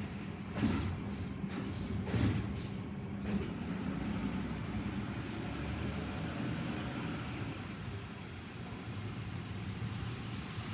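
Garbage truck's diesel engine running steadily, with three short sharp sounds in the first few seconds.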